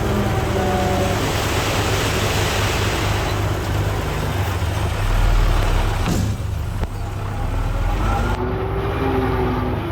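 Diesel engine of heavy earthmoving machinery running with a steady low rumble, a hiss that swells and fades in the first few seconds, and a deep surge about five seconds in.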